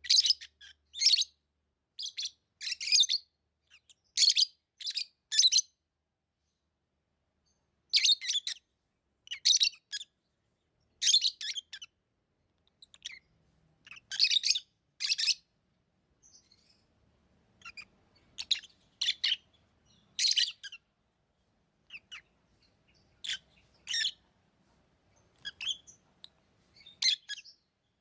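Pet lovebirds chirping: short, sharp, high calls in irregular clusters, with a pause of a couple of seconds partway through.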